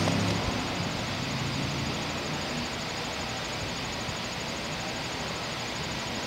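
Outdoor heat pump condensing unit running, a steady quiet whoosh of its fan and compressor; a lower hum fades out over the first second or two.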